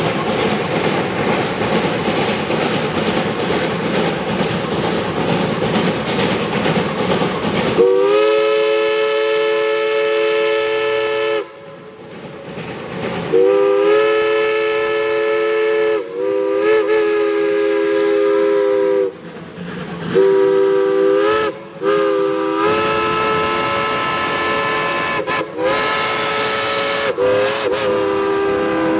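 Geared steam locomotive running, then its chime whistle sounding a chord of several notes in a series of blasts from about eight seconds in: long, long, short, long, the pattern of a grade-crossing signal.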